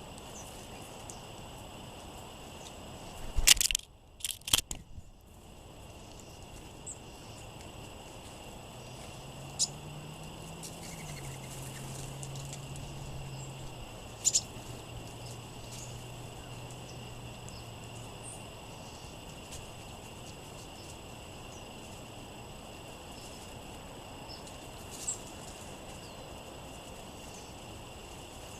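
Outdoor ambience at a songbird feeding spot on a windy day: steady wind noise with a few single, sharp bird chirps. A loud cluster of knocks and rustles comes about four seconds in.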